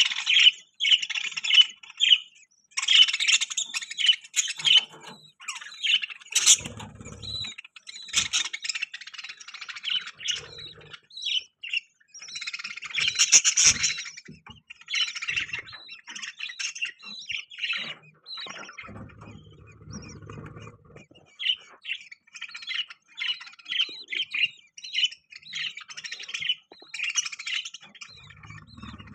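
Budgerigars chirping and chattering: a busy run of quick, high chirps and warbles with short gaps. A few brief low sounds come in under the chirping, around a quarter of the way in, about two-thirds of the way in, and at the very end.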